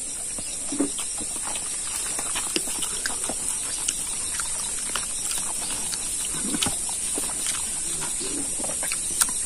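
Close-up eating sounds: a man chewing and smacking on stewed pig trotter and rice eaten by hand, with many short wet clicks and smacks. A steady high insect buzz runs underneath.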